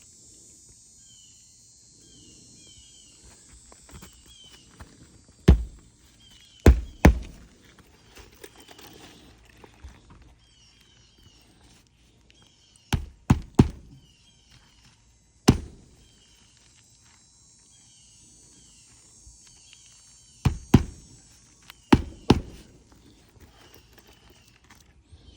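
Sharp hand-tool strikes while nails are worked out of asphalt roof shingles: eleven loud knocks in clusters of one to three, a few seconds apart. Behind them a faint high chirp repeats about once a second.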